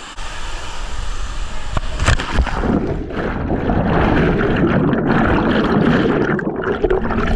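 A person plunging into a waterfall pool: a sharp splash about two seconds in, then a dense rushing and bubbling of churned water, muffled as if heard from under the surface.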